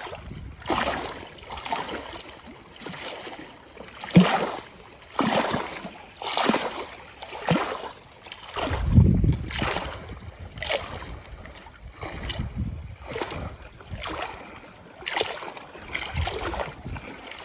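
Small lake waves lapping in an uneven series of light splashes, about one a second, with one heavier, deeper splash about halfway through.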